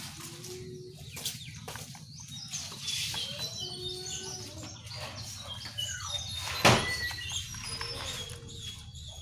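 Lesser shortwing (cingcoang coklat) singing: a busy jumble of short, high whistled notes. A sharp click about two-thirds of the way through, over a steady low hum.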